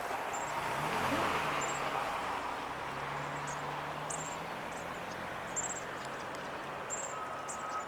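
A distant engine hum with a low, steady pitch comes in about a second in, rising briefly before it settles. It sits over a wash of outdoor background noise. Short, high-pitched chirps repeat about once a second above it.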